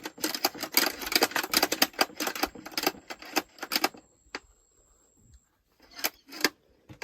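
A hammer tapping rapidly on fabric laid on a table, beating flower petals into the cloth to print their colour. The quick strikes run for about four seconds, stop, and two more come near the end.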